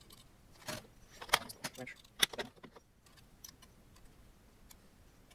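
Small metal hardware clinking and rattling as 3D printer parts are handled and fitted by hand: a handful of sharp clicks and knocks in the first half, then quieter handling.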